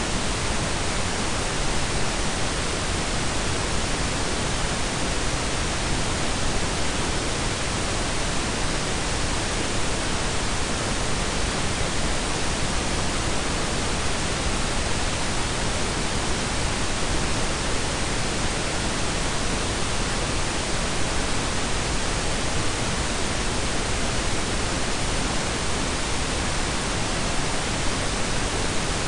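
Synthetic blend of pink and brown noise: a steady, even hiss with a deep rumbling low end, unchanging throughout.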